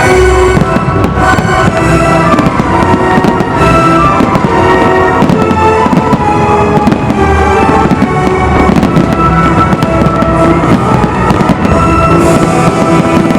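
Fireworks display: a dense run of firework bursts and bangs, one after another, over loud music with sustained melodic tones.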